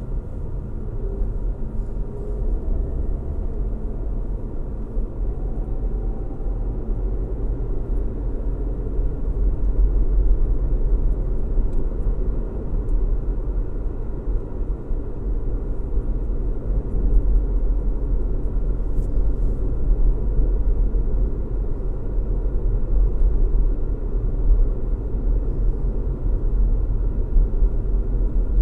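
A car driving at a steady speed: a low, steady rumble of road noise and engine hum.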